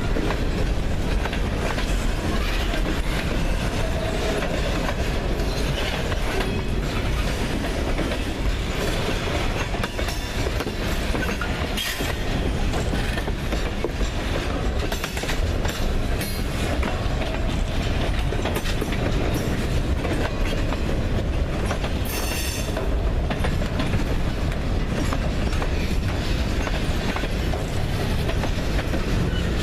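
Freight train rolling past at steady speed, a continuous rumble of cars with wheels clicking over the rail joints. A brief high-pitched burst about three quarters of the way through.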